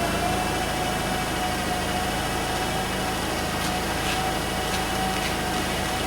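A motor running steadily with a constant whine over a noisy hum, the whine having just spun up; a few light clicks near the end.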